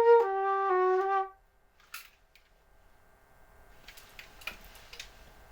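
A flute ends a short phrase of three notes falling in pitch, about a second in. In the pause that follows, the faint steady whine of the Blackmagic Pocket Cinema Camera 4K's built-in cooling fans is left, picked up by the camera's own built-in microphones, with a few soft clicks.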